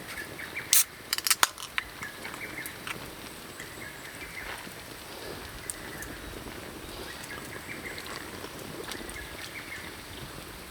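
Monjayaki batter sizzling on a hot plate over a campfire, with a cluster of sharp clicks about a second in and small birds chirping repeatedly.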